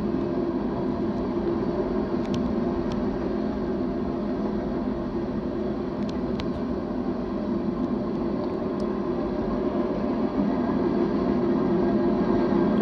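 Freight cars of a manifest train rolling past: a steady low rumble with a few brief, faint high ticks.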